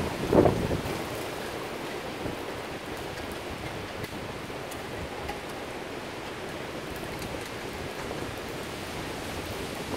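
Typhoon rain falling steadily, an even hiss with a few faint drop ticks, after a brief gust of wind buffeting the microphone about half a second in.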